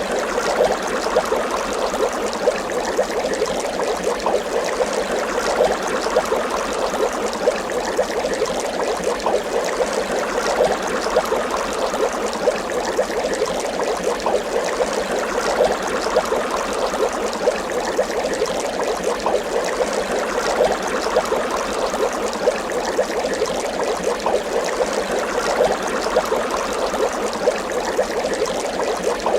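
Water bubbling steadily, a dense, even stream of small bubble pops.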